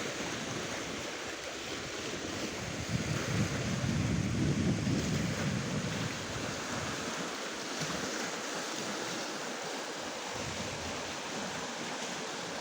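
Black Sea surf washing onto the shore, a steady hiss of water with wind blowing across the microphone. It swells louder and deeper for a couple of seconds about three seconds in.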